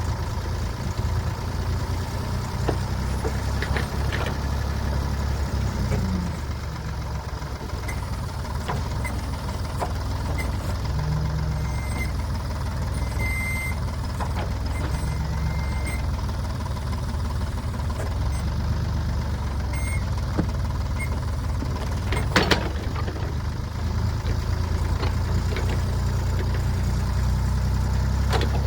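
Ford 555A backhoe's diesel engine running steadily under load while digging, with short high squeaks around the middle and scattered metal knocks, the loudest about 22 seconds in.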